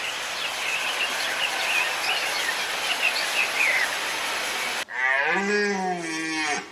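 A steady hiss of outdoor ambience with faint high chirps, then, after an abrupt cut about five seconds in, a cow moos once in a long call that ends near the end.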